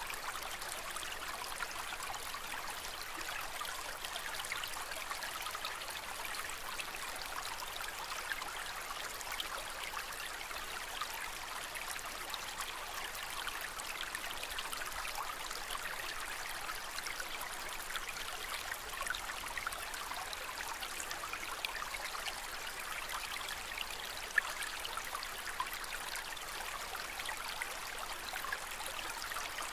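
Aquarium water trickling and splashing gently and steadily. One brief sharper tick comes a little before the end.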